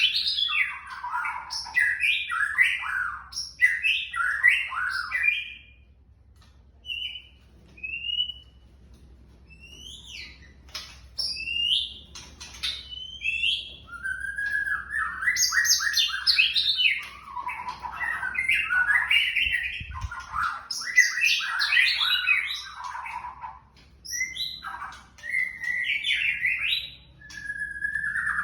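Young white-rumped shama singing varied whistled and chattering phrases, with a lull of several seconds near the middle broken only by a few short whistles.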